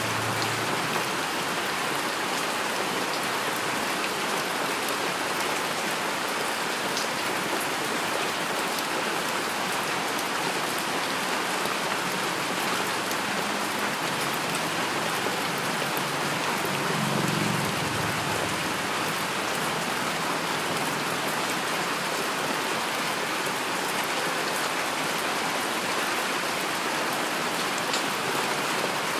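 Steady heavy rain falling and pattering on surfaces, an even dense hiss. A brief soft low rumble rises under it about seventeen seconds in.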